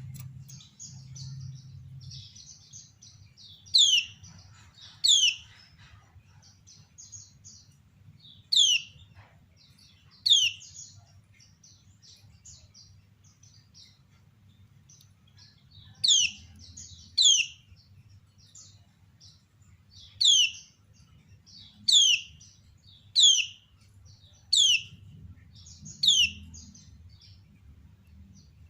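Kecial kuning white-eye giving a sharp, downward-sweeping 'ciak' call about a dozen times at irregular intervals, sometimes in quick pairs, with softer high twittering between the calls. This is the female's call, used to draw other kecial into answering.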